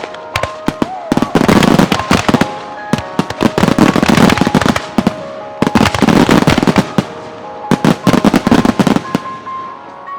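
Aerial fireworks bursting in rapid volleys: dense clusters of sharp bangs and cracks in about five bursts, each a second or so long, with music playing underneath. The bangs die away near the end.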